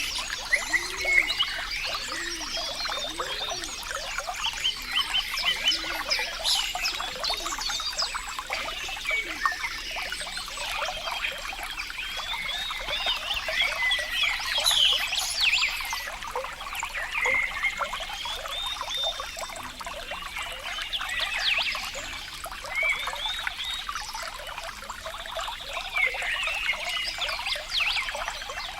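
Water trickling and gurgling, a constant stream of quick bubbling plinks with no pause.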